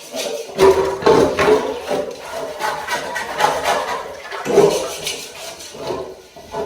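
Water rushing and splashing in uneven surges that swell and ease several times.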